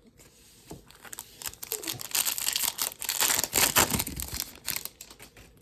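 Crinkly plastic wrapper of a Topps baseball card pack being torn open and crumpled, a dense crackling that builds about a second in and fades near the end.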